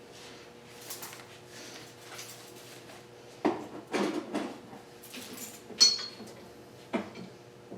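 Metal objects being handled and set down: scattered clanks and knocks, with one short metallic ring about six seconds in, over a faint steady hum.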